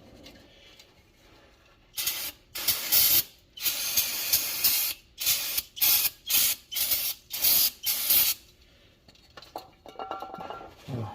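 Aerosol cleaner sprayed in a string of hissing bursts, short and long, for about six seconds, washing off leaked oil. Faint wiping and handling noises follow near the end.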